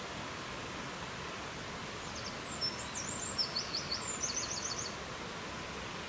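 Steady rushing wind noise, with a small songbird singing one high phrase of quick trilled notes from about two seconds in, lasting a little over two seconds.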